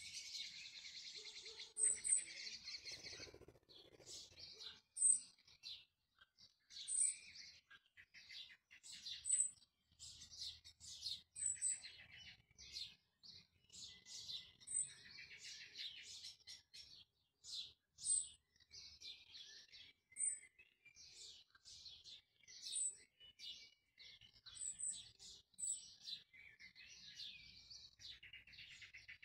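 A small bird singing: a steady run of quick chirps and warbled notes, with a short high-pitched note coming back every two to three seconds.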